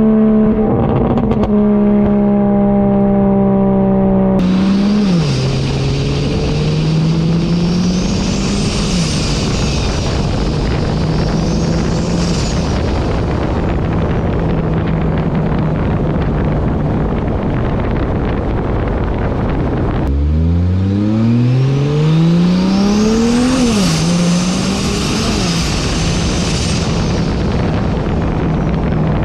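BMW N54 3.0 L inline-six with a big single-turbo kit and catless downpipe, pulling hard: the engine note climbs under acceleration and drops at each shift. A high turbo whistle rises and falls over it. Between the pulls there is a long stretch of steady running at an even pitch.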